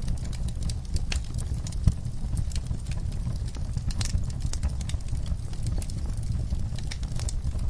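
Log fire crackling in a fireplace: frequent sharp pops and snaps over a low steady rumble of the flames, one pop louder than the rest about two seconds in.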